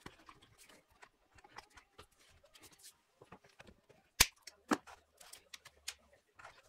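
Irregular small clicks and knocks of hand tools and metal parts being handled during work on the engine, with two sharp, louder clicks about half a second apart a little after four seconds in.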